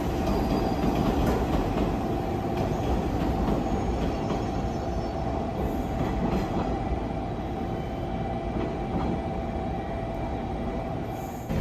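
JR Kyushu 415 series electric train running, a steady rumble of wheels on rail with a held whine, slowly fading, then cut off suddenly near the end.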